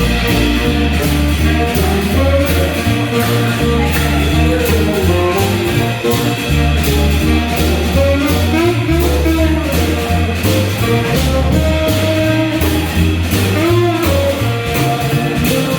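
Live swing jazz band playing a tune with a steady beat, a stepping bass line and guitar.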